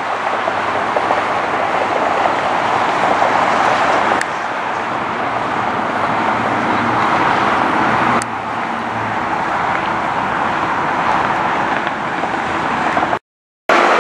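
A steady, loud roar of engines, broken by abrupt jumps in level about four and eight seconds in and a brief dropout near the end where separate clips are cut together.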